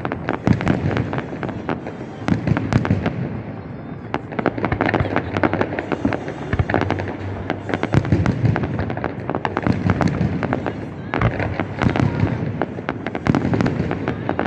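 Fireworks display: a dense run of bangs and crackling bursts in quick succession, easing briefly a few times before picking up again.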